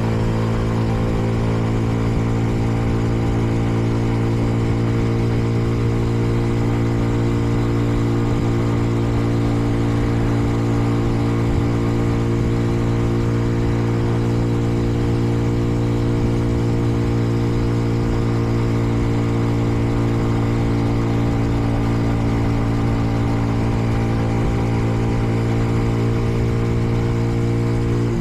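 Kreidler Dice CR 125 motorcycle's 125 cc engine running at a steady pitch while the bike cruises, held to moderate revs because it is still being run in.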